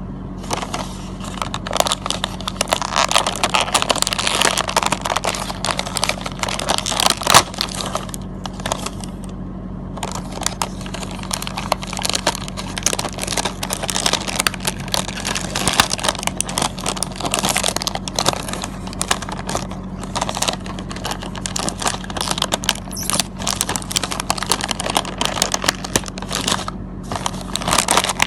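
Packet of seasoned seaweed being opened and handled, its packaging crinkling and crackling in long stretches broken by a few short pauses.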